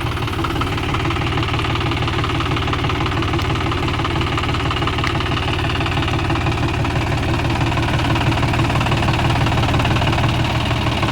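Diesel tractor engine running steadily, growing slightly louder near the end.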